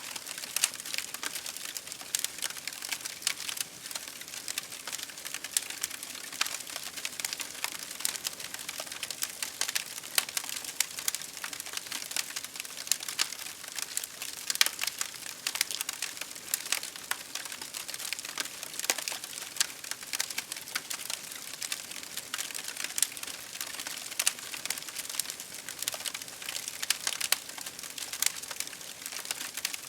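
Campfire crackling with dense, irregular pops and snaps over a steady hiss of rain.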